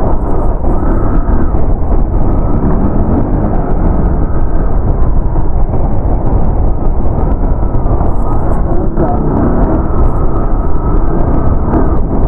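Wind buffeting the microphone of a phone on a moving motorcycle, a loud, steady low rush, with the motorcycle's engine running underneath.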